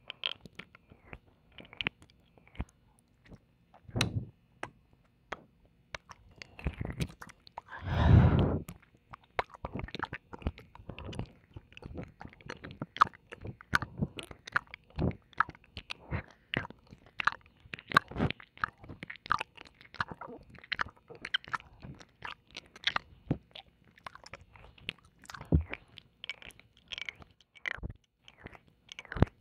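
Close-up wet mouth sounds of ASMR ear licking and kissing: a steady stream of quick smacking clicks, with one longer, louder wet sound about eight seconds in.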